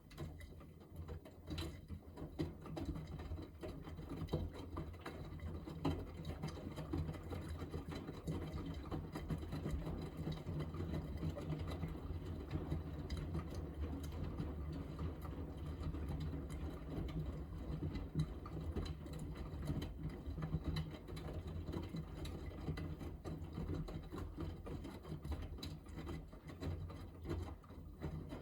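Miele Navitronic W3985 front-loading washing machine in its 45° cotton main wash, the drum motor running steadily as it tumbles the wet laundry.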